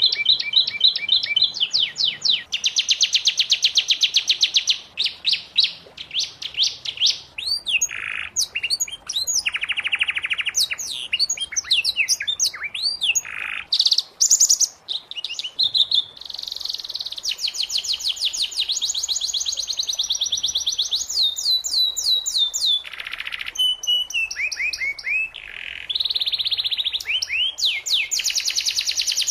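Domestic canary singing: long rapid trills and rolls, phrase after phrase with brief pauses between them.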